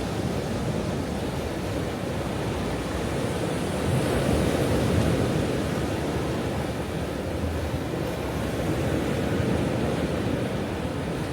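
Ocean waves breaking and washing on a shore: a continuous rushing surf noise that swells to a peak about four to five seconds in and then eases off.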